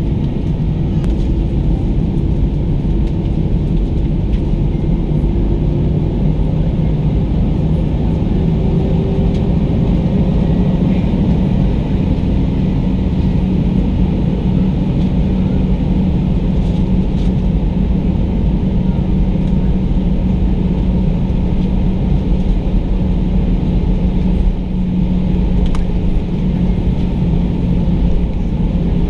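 Airbus A320's engines running, heard inside the passenger cabin: a loud, steady rumble with a drone on top that creeps up slightly in pitch over the first several seconds, then holds.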